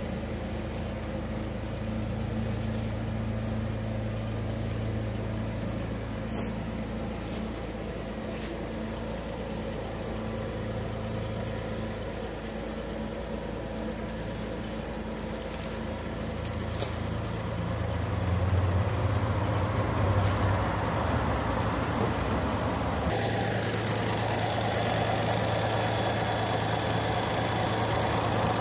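Volkswagen Move Up!'s 1.0-litre three-cylinder MPI petrol engine idling steadily, with an even low hum. It grows louder and nearer over the last several seconds.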